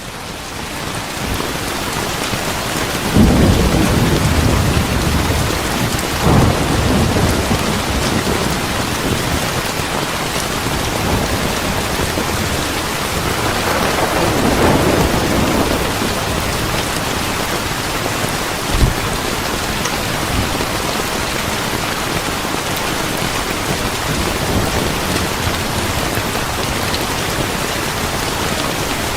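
Steady heavy rain with rolls of thunder: low rumbles about three and six seconds in, a longer one around fourteen seconds in, and a short thump near nineteen seconds.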